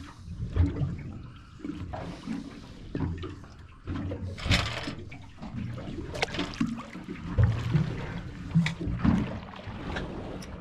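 Water sloshing and slapping against a small fishing boat's hull, with uneven low knocks and a few sharper splashes, the loudest about four and a half seconds in.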